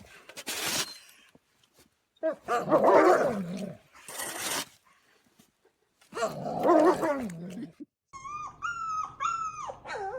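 A dog vocalising in two drawn-out, low, rough grumbles, close to a growl. About eight seconds in the sound changes to a dog whining in a run of short, high-pitched whimpers.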